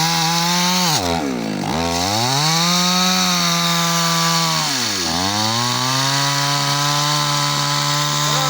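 Two-stroke chainsaw running at high revs while cutting a tree, its pitch sagging sharply and climbing back twice, about a second in and again about five seconds in.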